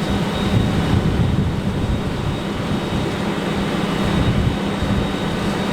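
A steady low engine rumble with a held hum under a constant noisy rush.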